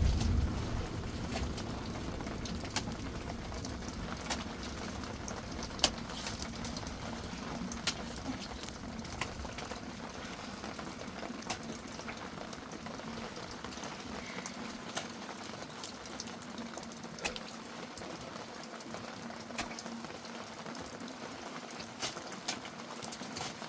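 Steady rain with scattered sharp drip ticks. The tail of a thunder rumble fades out in the first second or so.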